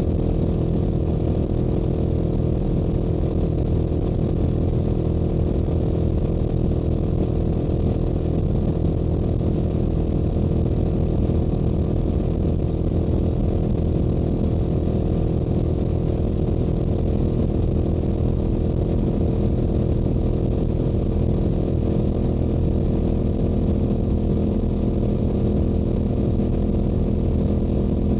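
Stock Yamaha YZF-R7's 689 cc parallel-twin engine and exhaust running at a steady highway cruise, its note holding one pitch, with wind rush on the microphone.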